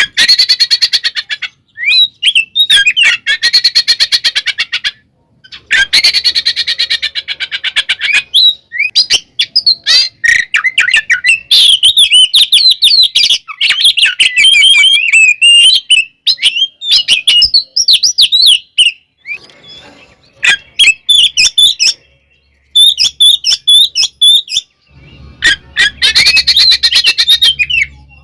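Oriental magpie-robin (kacer) singing loudly in repeated bursts: quick whistled phrases mixed with fast rattling chatter, broken by a few short pauses.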